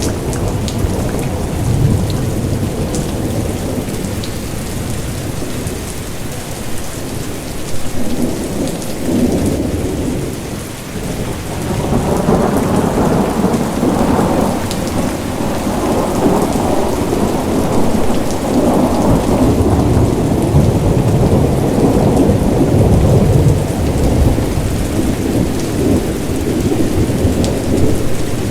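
Heavy rain falling steadily with rolling thunder rumbling underneath, the rumble swelling louder about twelve seconds in and staying strong.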